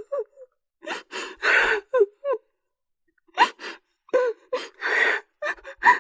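A person's voice in short bursts: sharp gasping breaths and brief falling cries.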